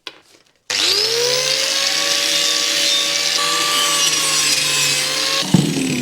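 Handheld electric power tool starting up and running under load, its motor pitch climbing as it spins up, with a harsh cutting or abrading hiss over it; about five seconds in there is a jolt, and the motor pitch starts dropping as it winds down.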